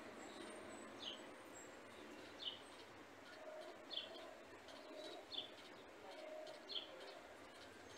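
A small bird chirping, one short falling chirp about every second and a half, over faint steady outdoor background noise.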